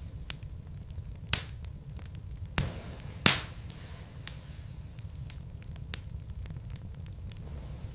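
Wood logs burning in a fireplace, crackling with scattered sharp pops over a low steady rumble. The loudest pop comes about three seconds in.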